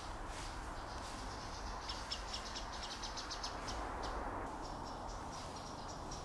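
A small bird calling: a quick run of short high chips, about eight a second, from about two seconds in, then thin high piping notes from about halfway, over a steady background hiss.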